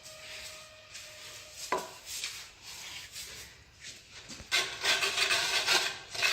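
Hand tools scraping and tapping on tile work, with light taps early on, then a louder, rough scrape lasting about a second and a half near the end.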